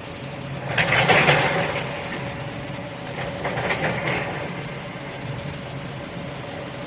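Steady hum of a commercial dishwashing machine running, with a loud rush of noise about a second in and a weaker one about three seconds in.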